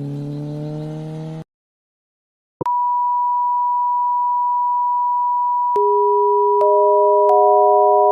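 Honda Tornado single-cylinder motorcycle engine revving with rising pitch, cut off abruptly into silence. About a second later a steady pure electronic beep tone starts, and lower steady tones join it about three and four seconds later to form a held chord.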